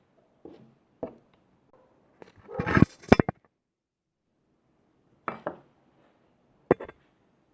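Small hard objects clinking and knocking together as they are handled. A short run of clattering strikes comes about a third of the way in, then two single sharp knocks later on.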